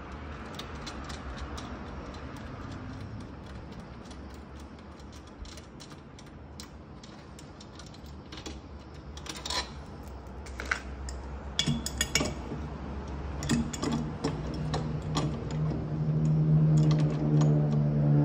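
Scattered metallic clicks and taps of hand tools working on a fridge compressor's pipe nut, over a steady low hum. Background music comes in during the last few seconds.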